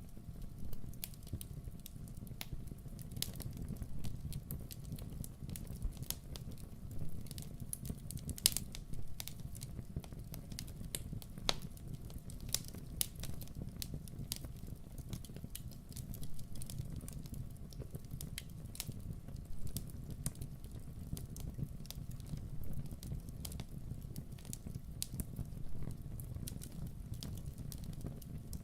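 Campfire crackling: irregular sharp pops and snaps, one louder snap about a third of the way in, over a low steady rumble.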